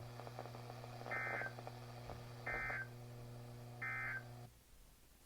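NOAA Weather Radio end-of-message signal: three short, identical buzzing data bursts of the digital SAME code, evenly spaced about a second and a half apart, over the receiver's steady hum. The hum cuts off suddenly near the end as the transmission drops, marking the close of the severe thunderstorm warning.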